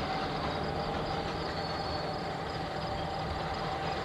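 Diesel locomotive of an EMD F unit running steadily, a low rumble with a faint steady tone above it.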